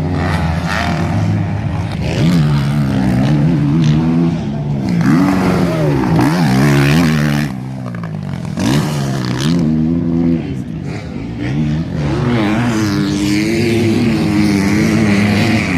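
Motocross bike engines revving hard, the pitch rising and falling again and again as the throttle is opened and shut.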